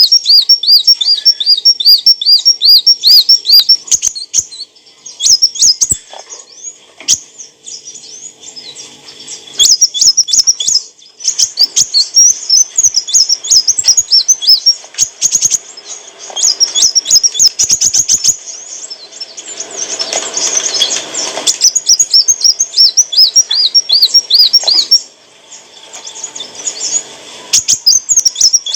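Kolibri wulung sunbird singing in rapid, repeated high chirps and trills, with short pauses between bursts. A brief noisy rustle comes about two-thirds of the way through.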